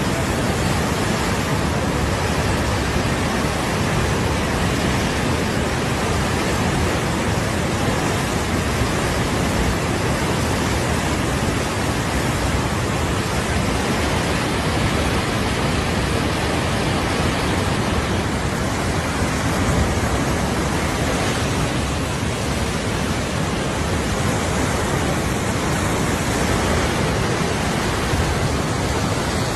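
Floodwater of a river in spate rushing past, a steady loud roar.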